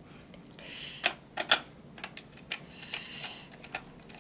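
Hands working the small plastic battery compartment of a toy train: sharp plastic clicks and taps, with two short rasping scrapes, about a second in and about three seconds in, as the cover's screw is turned and the cover is worked open.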